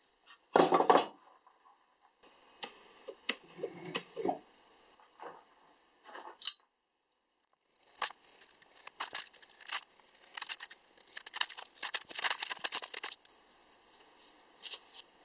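A brief scraping rub of a wooden block near the start. After a pause comes a knife point piercing and cutting out a paper template laid on the wood: a run of short scratchy cuts.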